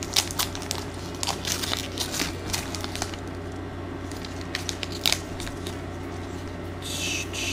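Plastic wrapper of a baseball card pack being torn open and crinkled, with irregular sharp crackles and clicks of handling. Near the end come a few short high falling sounds, over a steady low hum.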